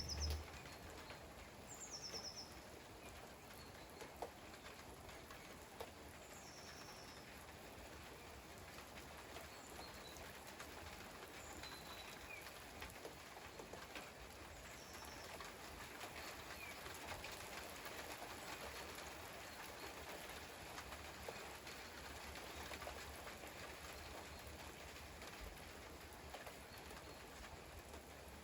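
Steady light rain hissing, with a bird giving short, high, falling calls every few seconds in the first half.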